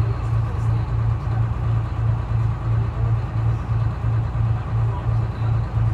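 Detroit Diesel 6V71 two-stroke diesel engine of a 1970-71 GMC New Look transit bus running steadily, a low rumble that throbs about three to four times a second.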